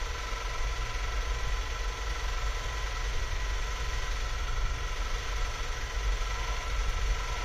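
Steady background hum and hiss with a low rumble and a few faint constant whining tones, unchanging throughout, with no distinct clicks or tool sounds.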